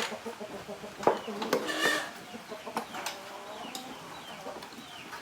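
A bird calling, short falling clucks repeated every half second or so, with a few sharp clicks and knocks in the first couple of seconds.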